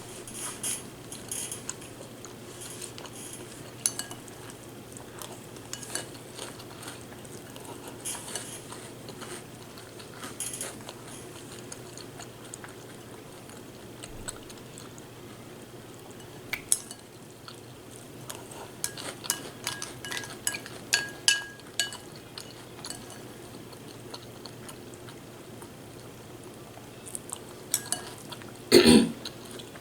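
Spoon clinking and scraping in a bowl of cereal as scattered taps, with a louder clunk near the end and a low steady hum underneath.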